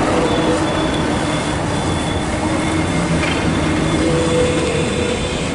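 Train rolling past close by: a loud steady rush of wheels on rail, with thin faint squealing tones riding over it.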